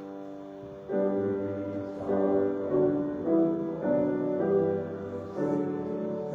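Keyboard instrument playing slow, held chords of church music, changing chord about once a second.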